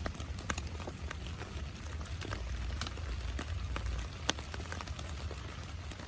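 Rain falling, with individual raindrops landing as irregular, separate taps over a steady low rumble.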